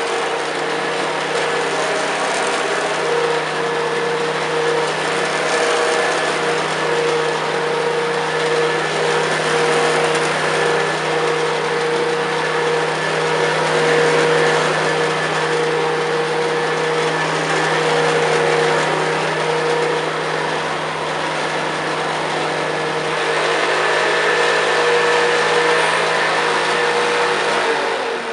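Hoover Senior upright vacuum cleaner (400-watt motor, belt-driven brush roll) running steadily on carpet with a constant hum and whine. It starts to wind down at the very end.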